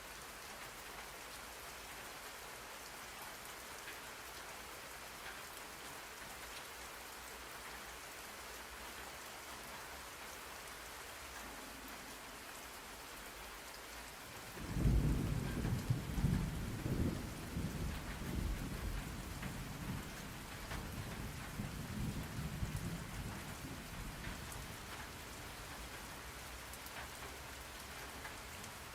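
Steady rain falling, with a low rumble of thunder starting suddenly about halfway through and fading away over the next ten seconds.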